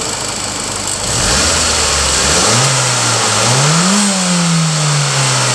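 Mitsubishi Lancer Evolution X's 4B11 turbocharged 2.0-litre four-cylinder engine running just after starting. It picks up a little about two and a half seconds in, then is revved once, peaking about four seconds in and easing slowly back down.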